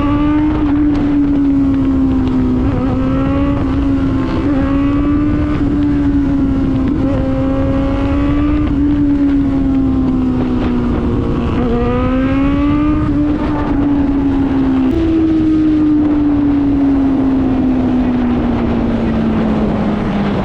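Suzuki GSX650F inline-four running through a new aftermarket exhaust while riding, its note climbing and dropping several times with the throttle. From about fifteen seconds in the note falls slowly and steadily as the bike slows. Steady wind and road noise run underneath.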